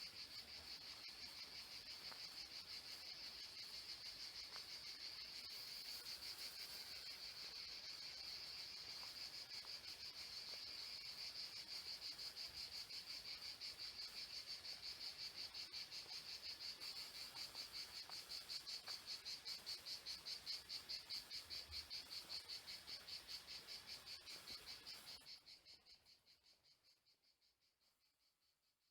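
Faint chorus of cicadas, a steady, fast-pulsing high buzz that fades away near the end.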